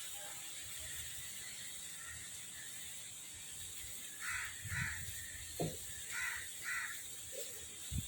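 A crow cawing: two pairs of short, harsh caws, the second pair coming about two seconds after the first. A soft low rumble and a single sharp knock fall between the two pairs.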